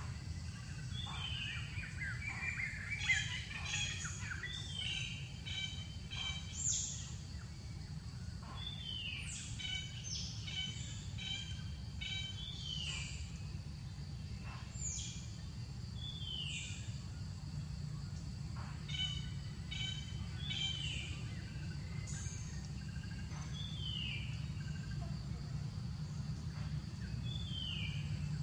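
Birds calling: short downward-sweeping chirps every couple of seconds, mixed with quick runs of rapid repeated notes, over a steady low background hum.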